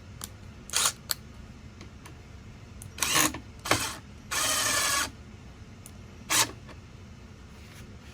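Power drill/driver running in short bursts, driving screws into wooden benchwork: several quick pulls of the trigger and one longer run of under a second just past the middle.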